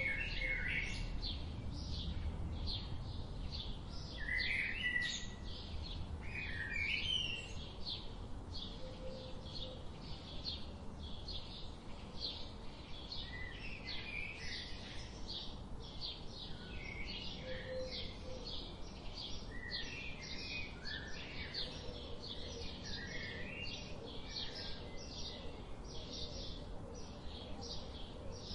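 Birds chirping: a high chirp repeated about three times a second throughout, with other short, varied calls coming in now and then.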